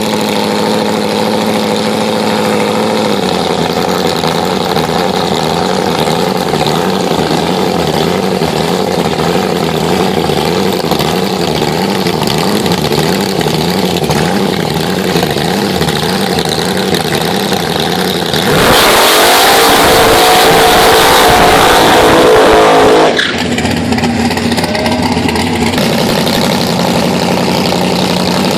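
Drag race car engine idling with a rhythmic rise and fall in pitch, then going to full throttle for about four and a half seconds, its pitch climbing and the level jumping. The engine then cuts off abruptly and settles back to idle.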